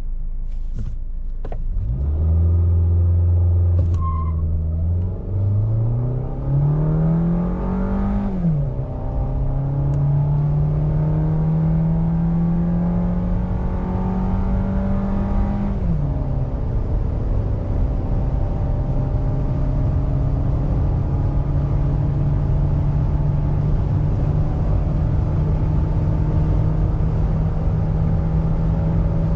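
Suzuki XL6 minivan's small 1.5-litre four-cylinder engine at full throttle through its automatic gearbox, heard from inside the cabin. The engine note jumps up at launch, climbs in pitch, drops at two upshifts, and then settles to a steady cruise. A constant rush of wind noise runs underneath, from a gale-force headwind blowing against the closed driver's window and door.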